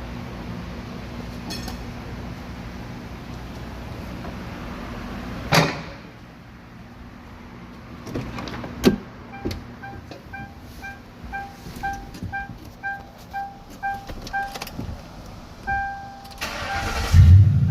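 A car engine runs steadily and then shuts off with a sharp clack. After some clicks, the car's warning chime dings about twice a second, and near the end the engine cranks and starts with a loud low rumble through the exhaust.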